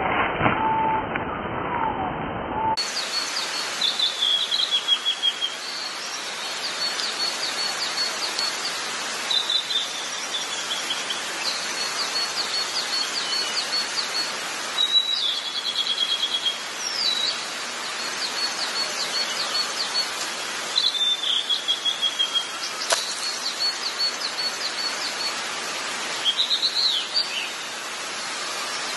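Small birds singing: repeated rapid runs of high chirps and a few short falling whistled notes, over a steady outdoor hiss.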